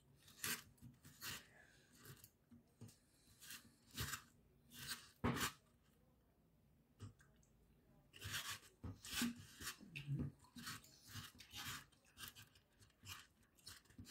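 Close-up chewing and mouth sounds of a person eating a pie, with short, irregular crunchy clicks and smacks and a quiet spell of about two seconds midway.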